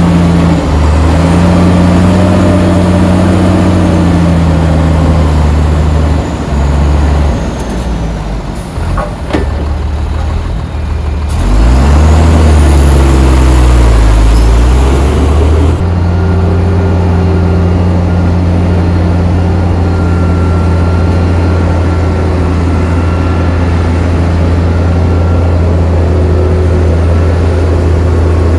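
Heavy diesel engine of earthmoving machinery running close by: a steady hum, then quieter and unsettled about halfway through, then revving up loudly with the pitch bending for about four seconds before settling back into a steady run.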